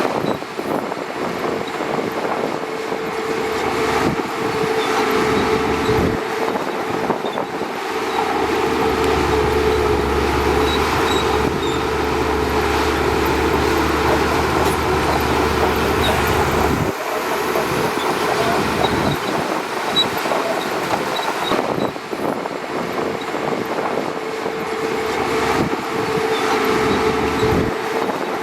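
Shantui DH17C2 bulldozer's diesel engine running steadily, with a deeper low hum joining from about eight seconds in until about seventeen seconds.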